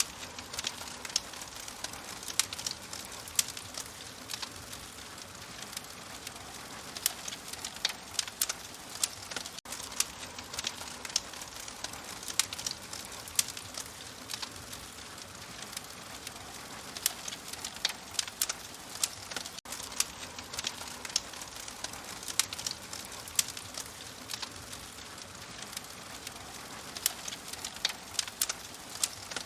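Wood fire in an open fireplace crackling: a steady soft hiss with frequent sharp, irregular pops and snaps.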